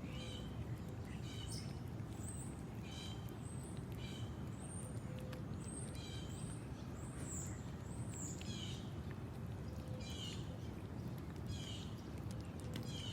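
Small birds chirping over and over in short, high calls, over a steady low rumble.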